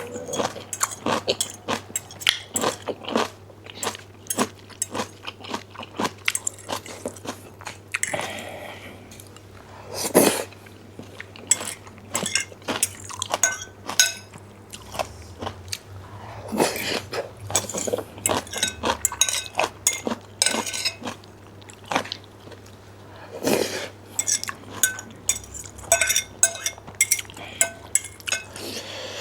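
Close-up mukbang eating sounds: chewing and biting through black bean noodles, with utensils clicking and clinking against the dish, and a few louder mouthfuls scattered through.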